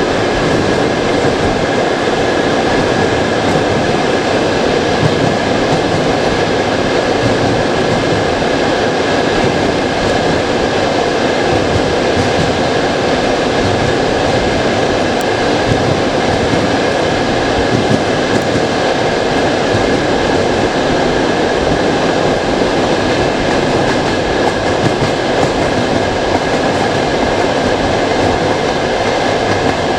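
Passenger train running steadily, heard from the carriage window: a continuous rumble and hiss of wheels on the track with a constant high-pitched tone over it.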